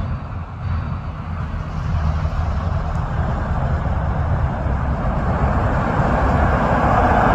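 Vehicle engine rumble and road traffic noise, steady and low, with a rushing sound that grows louder over the last few seconds.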